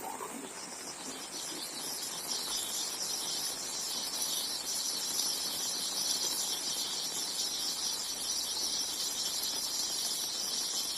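Steady, high-pitched insect chorus over a fainter, even hiss.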